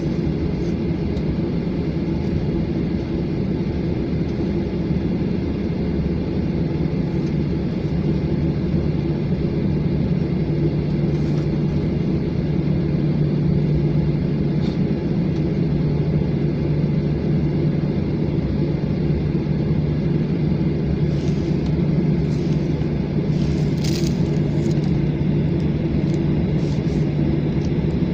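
Jet airliner cabin noise during taxi: a steady low rumble and hum from the engines and air conditioning, with a brief sharp click near the end.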